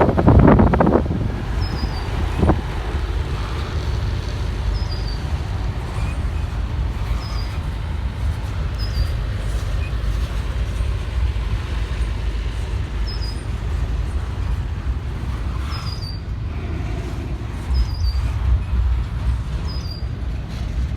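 Long CSX freight train rolling very slowly past: a steady low rumble of railcars on the track, with a loud clank in the first second and a smaller one a couple of seconds later.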